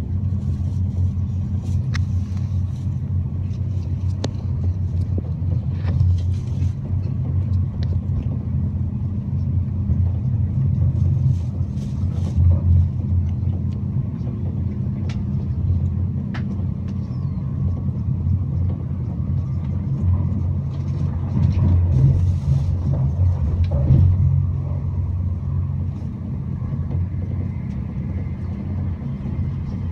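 Steady low rumble of an ICE high-speed train in motion, heard inside the passenger cabin, swelling in places, with a few faint clicks.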